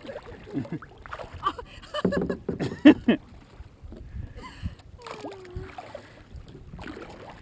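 Kayak paddling: water splashing and lapping around the boats, with short stretches of indistinct voices about one second and two to three seconds in.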